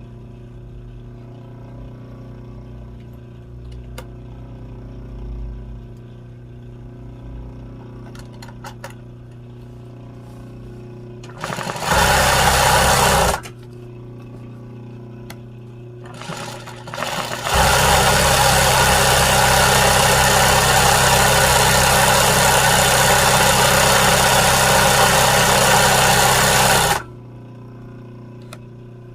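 Sewing machine run in two spurts of free-motion stitching, a short one of about two seconds and then a steady run of about nine seconds, each starting and stopping abruptly, over a steady low hum.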